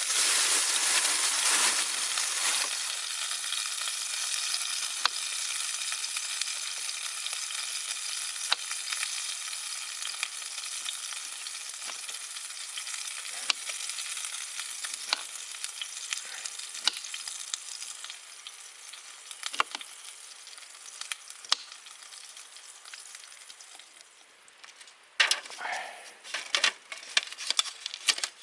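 Meat sizzling as it cooks, a steady hiss with occasional sharp pops that grows gradually quieter. Near the end there are a few quick clicks and rustles.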